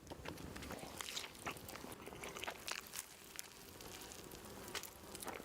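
A person biting into and chewing a toasted steak sandwich, with irregular crisp crunches from the bread.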